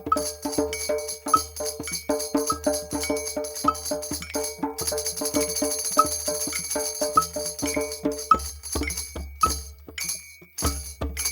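Group percussion jam: hand drums beaten in a fast, steady rhythm with jingling percussion on top. About five seconds in the jingling becomes continuous, and near the end the strikes thin out, with deeper drum hits.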